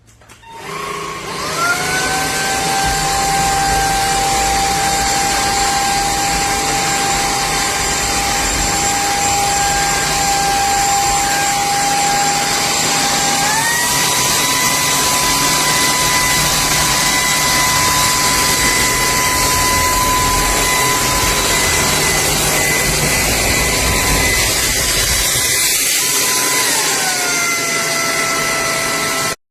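Cordless stick vacuum motor switched on, its whine rising and settling into a steady run. About halfway through the pitch steps up and holds, then near the end it steps back down to a lower pitch.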